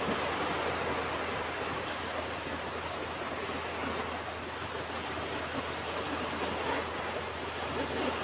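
Ocean surf washing onto a beach: a steady rushing noise of breaking waves that swells and eases gently.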